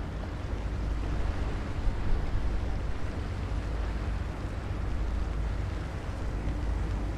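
Strong wind rumbling on the microphone, over the steady low drone of a sand-carrying river boat's engine.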